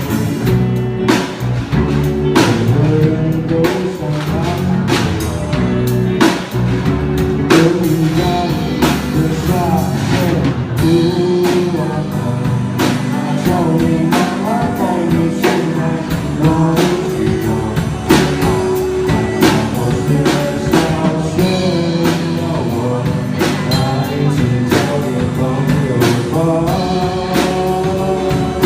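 A rock band playing a song: a singing voice over guitar and a drum kit keeping a steady beat.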